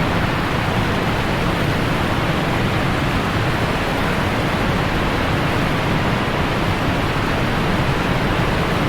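Steady, even rush of a large waterfall pouring down close by: Minneopa Falls, the largest waterfall in southern Minnesota.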